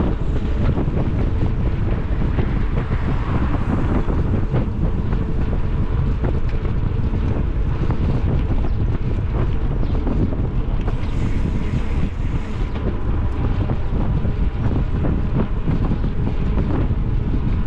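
Wind buffeting the microphone of a camera on a moving bicycle, a steady rumbling roar of rushing air.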